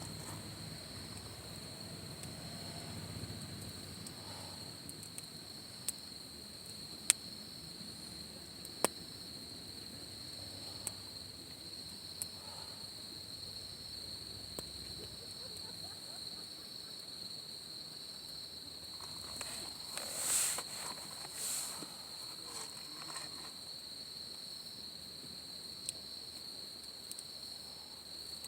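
Steady high-pitched insect trilling throughout, with a few sharp isolated pops from a wood campfire and a brief louder rustle about twenty seconds in.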